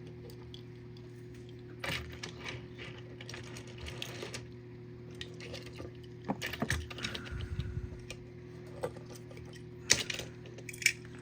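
Small clicks and taps of die-cast toy cars being handled and set down on a surface, the sharpest about ten seconds in, over a steady low hum.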